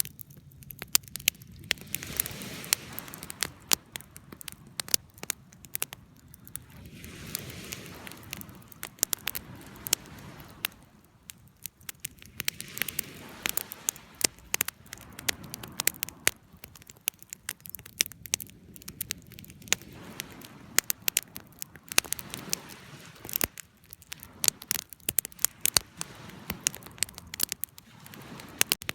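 Campfire crackling: a steady run of sharp pops and snaps over a soft hiss of flames that swells and fades every few seconds.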